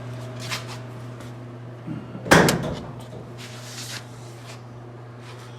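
A car door being shut: one solid slam about two seconds in, with a lighter knock just before it.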